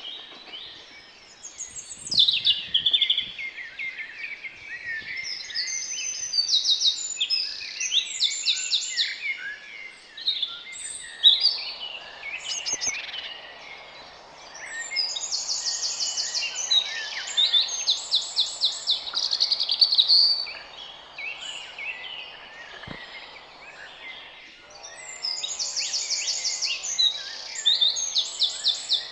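Several garden birds singing and calling over one another, with bright, fast trills of repeated notes and shorter chirps. A faint steady hiss runs beneath for parts of it.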